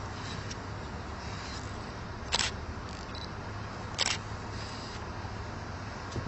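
Two short, sharp clicks about a second and a half apart over a steady low outdoor rumble.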